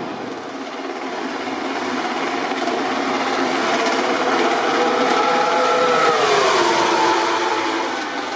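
A MotoGP four-cylinder race motorcycle passing at high speed: its engine note builds in loudness, then drops sharply in pitch as it goes by about six seconds in, and fades away.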